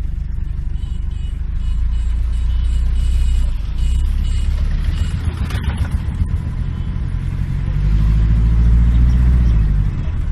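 Heavy motor vehicle's engine running with a deep rumble. It labours louder for a couple of seconds near the end.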